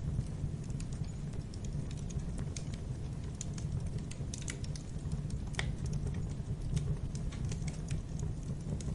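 Wood fire crackling in a fireplace: irregular sharp pops and snaps over a steady low rumble of the flames, with one stronger pop about five and a half seconds in.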